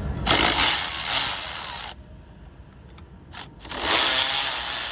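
Electric ratchet running in two bursts of about a second and a half each, with a short blip before the second, spinning out the 8 mm bolts on an engine mount.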